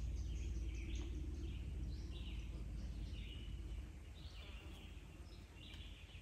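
Songbirds singing in the woods, short chirping phrases repeating about every half second, over a steady low rumble on the microphone.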